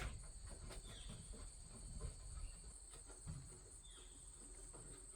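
Quiet outdoor background: faint steady insect drone with two short bird chirps, about a second in and near four seconds, and a light click at the very start.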